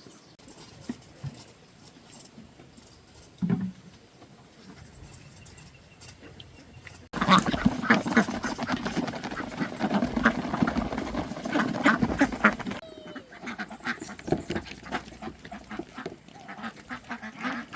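Ducks quacking. A dense, loud chorus starts abruptly about seven seconds in and lasts some six seconds, then thins to scattered quacks.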